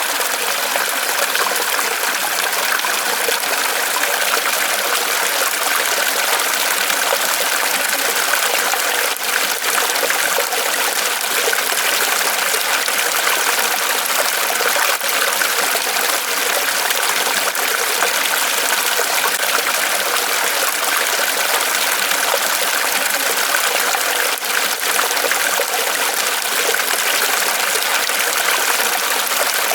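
Water trickling and splashing steadily from a small waterfall falling off a tree trunk.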